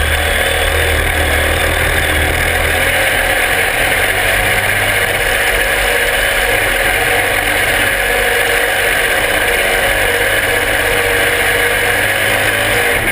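Open super stock garden pulling tractor's engine running hard at a steady, constant pitch during a pull, heard close up.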